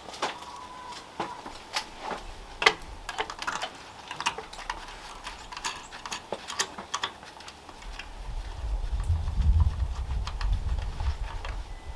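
Irregular sharp clicks and taps, like small hard objects being handled. A low rumble comes in about two-thirds of the way through.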